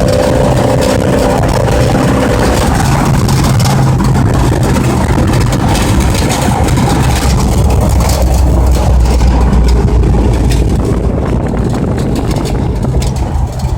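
Pickup truck engine running hard under throttle. Its low drone swells to its loudest about two-thirds of the way through, then eases off, with scattered crackling near the end.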